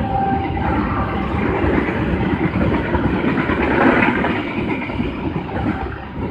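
Passenger train passing close by, its wheels and carriages rumbling steadily. The tail of the CC 206 diesel locomotive's horn fades out in the first half second, and the rumble falls away sharply at the end as the last carriage goes by.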